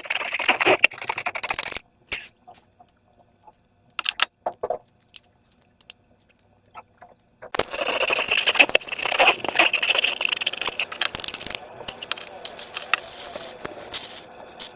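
Slime being squeezed and worked by hand, giving a sticky, crackly clicking. It comes in two stretches: one at the start for a couple of seconds, and a longer one from about halfway in. In between there are only scattered clicks.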